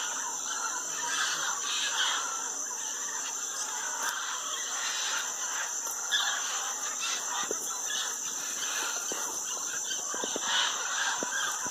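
A large mixed flock of parrots and scarlet macaws squawking, many harsh calls overlapping continuously with no pause.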